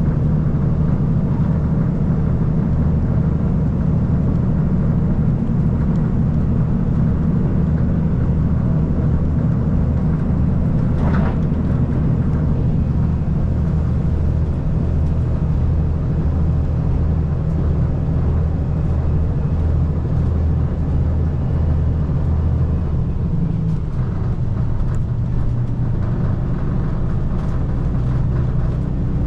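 KiHa 185 series diesel railcar running at speed, a steady low engine drone with running noise. Near the end the engine note drops to a lower pitch.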